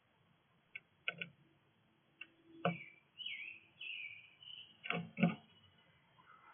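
Small birds at a feeder chirping in short, pitch-bending notes, among several sharp taps and knocks, the two loudest close together near the end.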